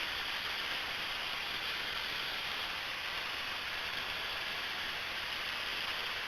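Steady, even rushing hiss of a Cessna 172M in flight: engine and airflow noise from the cockpit with no distinct engine tone or change in level.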